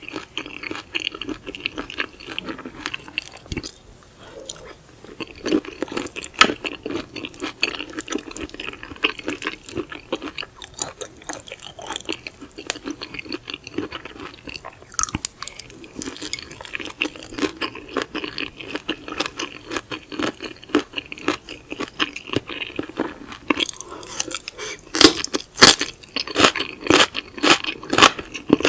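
Close-miked chewing of raw seafood: a dense run of quick, wet, crunchy mouth clicks, loudest near the end.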